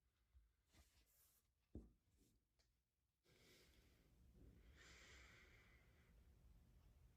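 Near silence: faint room tone with a few soft clicks and a light thump about two seconds in, then a faint hiss for the rest.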